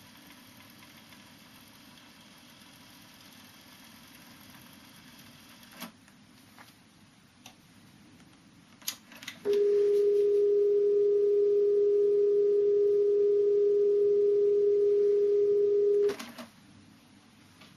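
Nakamichi 660ZX cassette deck under an operation check: a few mechanical clicks over faint hiss, then a loud steady single tone lasting about six seconds that stops abruptly, followed by more clicks.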